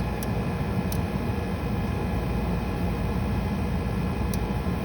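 GE dehumidifier running steadily, its fan and compressor making an even whooshing hum, with a few faint short ticks.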